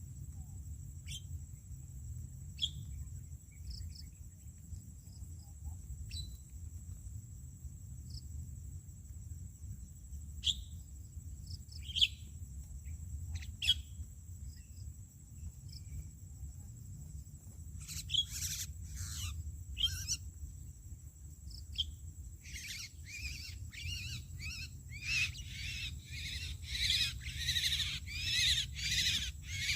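Starlings calling: scattered short calls at first, then, a little past halfway, a run of rapid repeated chattering calls that grows louder and denser toward the end.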